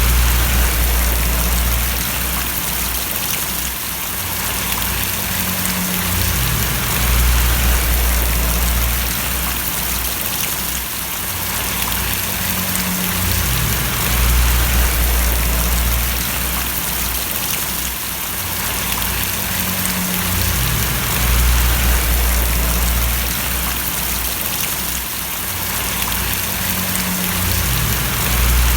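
Steady rain falling and splashing, a dense even patter, with a deep rumble underneath that swells and fades about every seven seconds.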